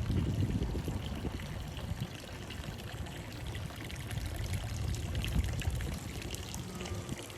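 Water from a street fountain pouring and splashing steadily.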